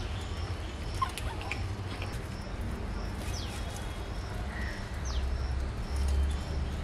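Birds chirping: a short high note repeats at an even pace, and a quick falling whistle comes twice midway. A steady low hum lies underneath.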